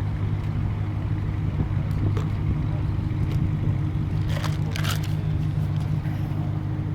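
Car engine idling with a steady low hum, and a brief rustle about four seconds in.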